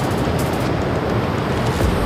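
Rushing water: a steady, loud noise of fast-flowing water over rocks.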